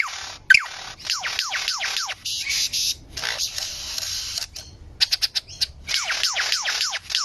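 Bird calling in a varied series of sounds: rapid falling whistled sweeps, a hissing stretch in the middle, a quick run of sharp clicks, then more rapid falling sweeps, the varied repertoire of a bird said to make 25 kinds of sounds.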